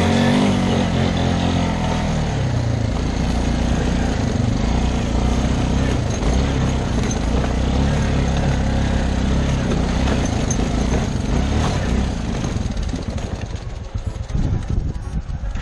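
Quad bike engine running under way, its pitch rising and falling with the throttle in the first couple of seconds, then holding steady. Near the end it drops and turns uneven.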